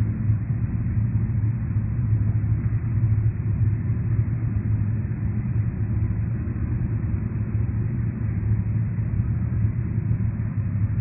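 Honda Faze 250 cc single-cylinder scooter engine idling steadily through an aftermarket Moriwaki exhaust, a low even rumble.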